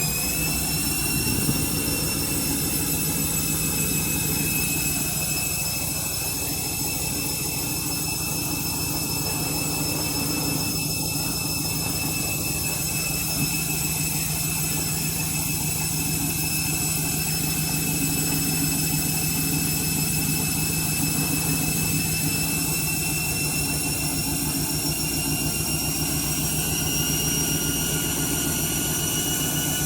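Washing machine on a high-speed final spin. The motor's whine climbs just before and holds a steady high pitch, edging up slightly near the end, over a continuous low rumble from the drum.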